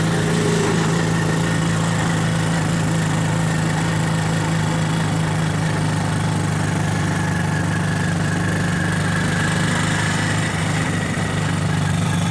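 A vehicle's engine running steadily at an even, unchanging pitch, a low hum with road noise above it.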